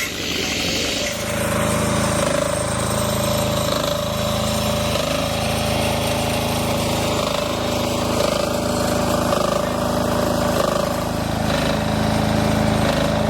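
A motor-driven machine starts about a second in and runs steadily: a low hum with an even, slightly pulsing beat and a steady higher whine above it.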